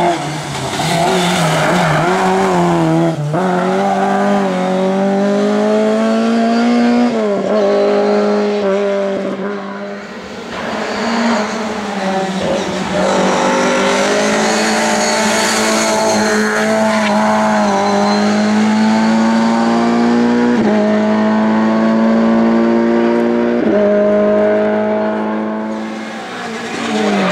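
Lada race car engine running at high revs under hard acceleration. Its pitch climbs steadily through each gear and drops sharply at each upshift, several times over.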